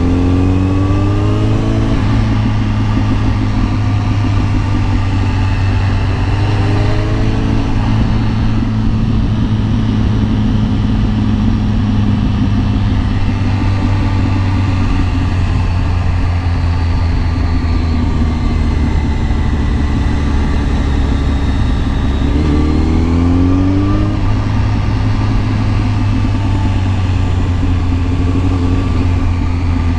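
Kawasaki ZX-10R's inline-four engine running steadily under way. Its pitch climbs briefly three times as the throttle is opened.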